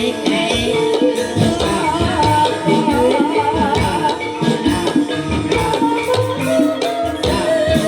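Jaranan dangdut music: drums and shaken percussion playing a busy rhythm under a wavering melody line.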